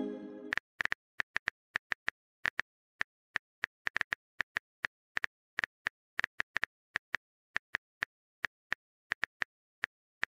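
Simulated smartphone keyboard typing clicks, short and crisp, coming irregularly a few times a second. A pitched chime fades out in the first half second.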